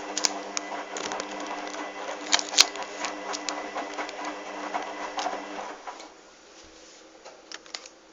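Hoover washing machine's motor turning the drum during a wash, a steady hum with many clicks and knocks over it. It stops about six seconds in, leaving a quieter pause with a few clicks.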